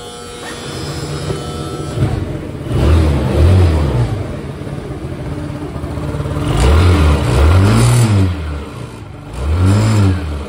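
Yamaha RS100 scooter engine running and revved in several throttle blips, each rising and falling in pitch. This is the test run after the worn rear gear-case pulley bearing was replaced, and the clattering knock is gone.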